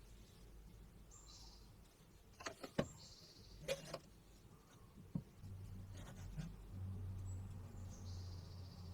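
Faint handling sounds of parts being worked on: a few light knocks and clicks, short hissing scrapes, and a low steady hum that sets in about halfway through.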